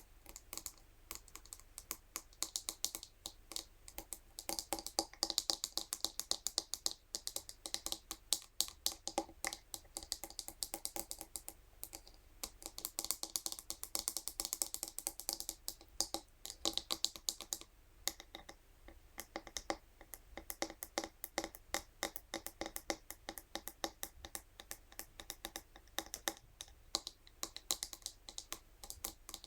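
Scalp massage brush being tapped and scratched, a quick, irregular run of light clicks, many a second, busier in a couple of stretches.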